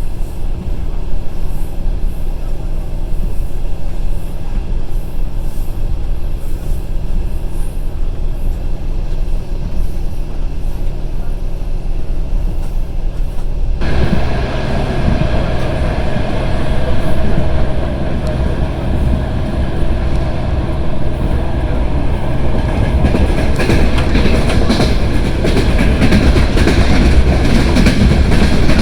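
Passenger train running along the track, with a steady low rumble of wheels on rails heard from inside the carriage. About halfway through, the noise abruptly gets louder and brighter, with more wheel clatter.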